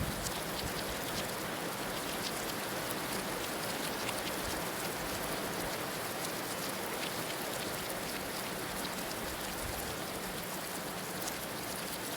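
Heavy rain falling steadily, a dense even hiss scattered with sharp drop ticks.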